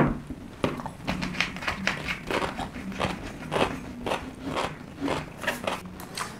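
Chewing pickled radish (danmuji): a string of irregular crisp crunches, several a second.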